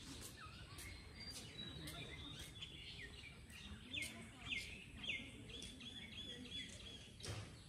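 Birds chirping faintly, one repeating a short falling chirp about twice a second through the middle stretch.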